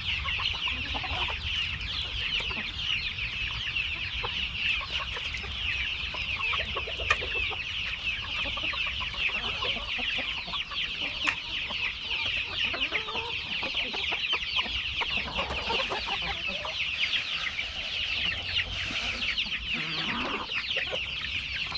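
A flock of chickens and roosters clucking and calling all at once in a steady, dense chatter at feeding time.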